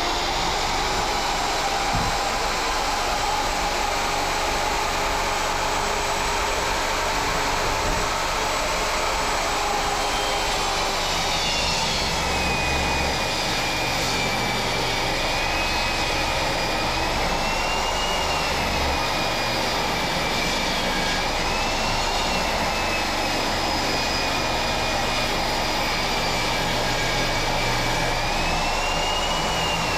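Electric power saw's motor running steadily under load, with a high whine that wavers up and down in pitch, as in ripping 2x4 lumber lengthwise.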